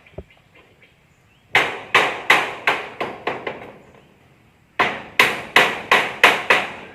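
Hammer blows in building work: two runs of quick strikes, about seven and then six, roughly three a second, with a short pause between.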